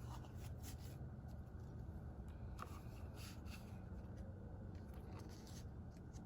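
Paper and card rustling and scraping in short bursts as a 7-inch vinyl record's packaging is handled, over a faint low hum.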